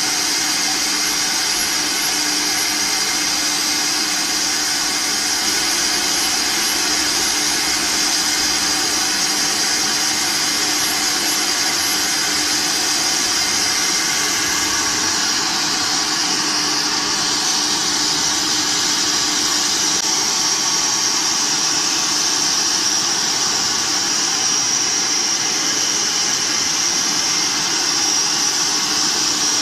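Multi-head CNC router running, with a steady high spindle whine over cutting noise. About halfway through, the whine shifts slightly higher.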